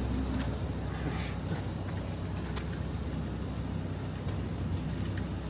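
Car engine idling steadily: a low, even hum with no revving.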